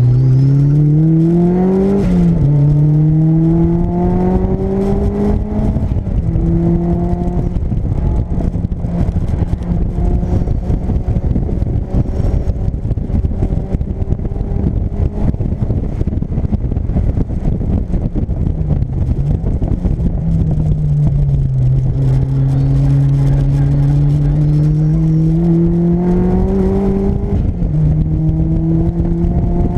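Turbocharged Mazda MX-5's four-cylinder engine under hard acceleration, heard from inside the cabin: revs climb and fall sharply with upshifts about 2 and 6 seconds in, hold fairly steady for a long stretch with a brief dip, then climb again to another upshift near the end. Constant low wind buffeting and road rumble run underneath.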